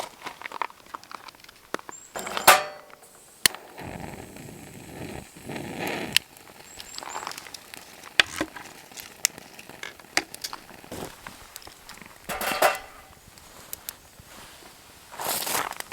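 Irregular clinks, knocks and rustling of camp gear being handled while setting up a fire and grill, with the loudest sharp knock about two and a half seconds in.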